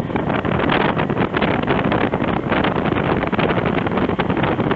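Heavy wind buffeting on the microphone of a moving motorcycle, with the bike's engine running underneath.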